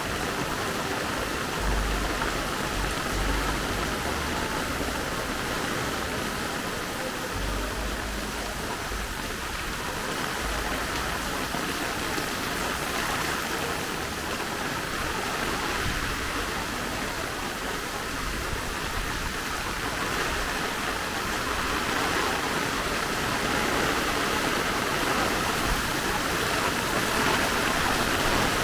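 Steady rain falling, an even hiss, growing slightly heavier toward the end, with brief low rumbles twice in the first third.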